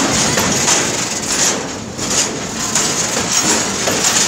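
Oil tank wagons of a freight train rolling past close by: steel wheels and couplings rattling and clanking over the rails, with the noise dipping briefly a little before halfway.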